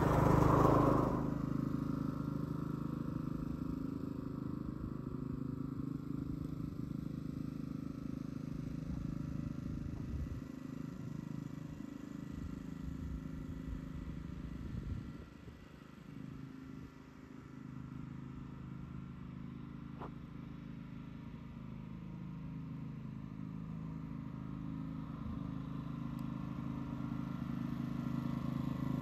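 Allett reel mower's small petrol engine running steadily as it cuts. The hum drops away about halfway through and builds up louder again toward the end.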